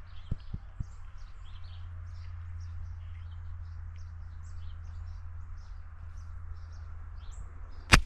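Starlings in a tree giving many short, high chirps over a steady low hum. Near the end there is a single sharp, loud snap.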